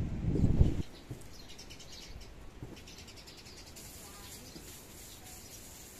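A burst of low rumbling noise cuts off abruptly under a second in. After that, birds chirp faintly over quiet outdoor background.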